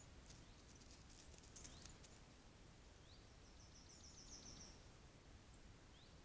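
Near silence in the forest, with faint high-pitched bird calls: a quick trill of repeated notes around the middle and a few short rising chirps, one of them near the end. A cluster of faint ticks comes in the first two seconds.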